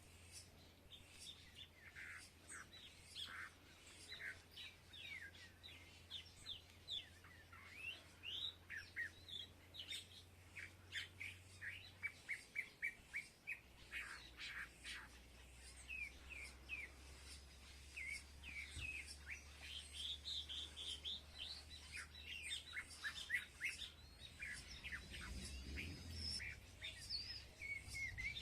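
Several small birds chirping and calling in short, quick notes, busier in the second half. About twelve seconds in there is a fast run of evenly repeated chirps, roughly four a second.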